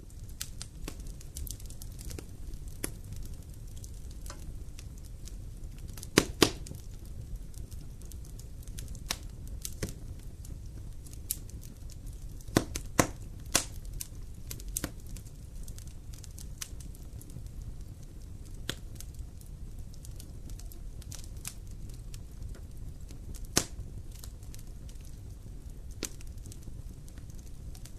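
Campfire burning: scattered sharp crackles and pops over a steady low rumble. The loudest pops come in small clusters about six seconds in and again about thirteen seconds in.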